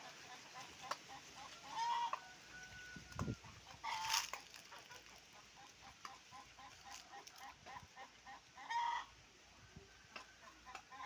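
A flock of chickens clucking steadily while feeding. Louder calls stand out about two, four and nine seconds in.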